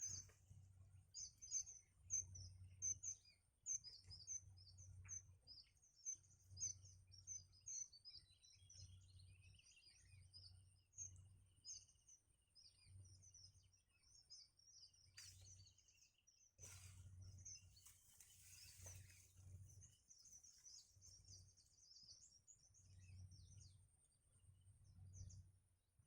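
Nestling songbirds chirping: many short, high-pitched peeps in quick, busy runs, typical of begging calls for food. Faint low rumbling comes and goes beneath them.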